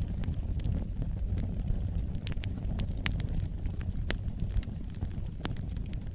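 Wood campfire burning, with irregular sharp crackles and pops over a steady low rumble of flame.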